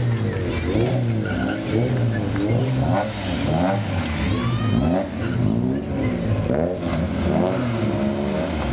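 Rally car engine revved over and over, its pitch rising and falling about twice a second.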